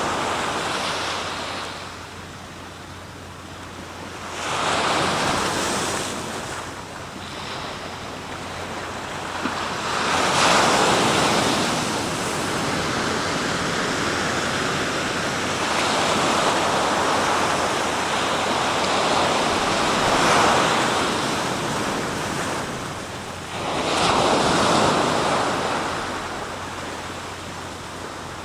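Sea waves washing in and breaking on the shore, swelling in surges every five or six seconds with quieter lulls between.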